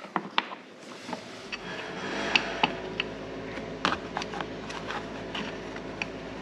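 Scattered metallic clicks and knocks of hardware and tools being handled in a cramped spot around the shock tower. A steady mechanical hum starts about a second and a half in.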